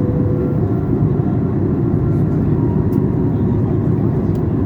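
Steady cabin noise inside a Boeing 737 MAX 8 in flight during descent: a loud, even rumble of engines and airflow, heaviest in the low range.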